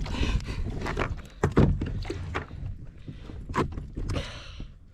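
Freshly landed yellowfin tuna thrashing on a plastic sit-on-top kayak, its body and tail knocking irregularly against the hull. A brief hiss comes about four seconds in.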